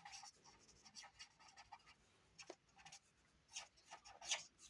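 Faint, short scratching strokes of an ink pen drawing on paper, in irregular bursts.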